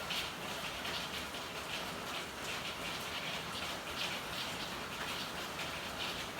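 Steady rain falling: an even hiss of drops that swells and eases irregularly.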